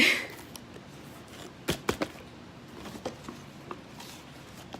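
Items being handled and set down on a surface: a few light knocks and clicks, the two sharpest close together a little before two seconds in.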